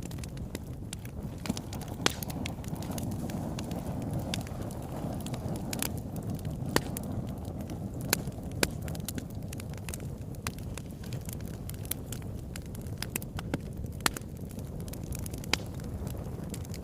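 Wood fire burning in a fireplace: a steady low rush of flames with irregular sharp crackles and pops, a few louder snaps scattered through.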